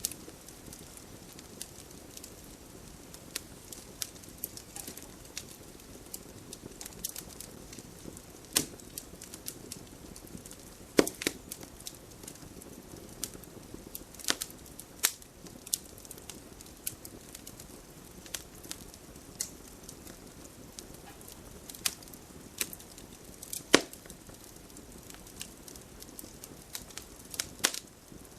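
Wood campfire crackling: irregular sharp pops and snaps over a low steady hiss, with two much louder pops, one about a third of the way in and one later on.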